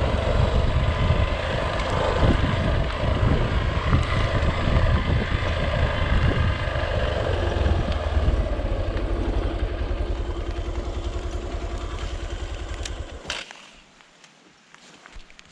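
A vehicle engine running with a steady low pulse. It eases off and then cuts out about 13 seconds in, followed by a few sharp clicks.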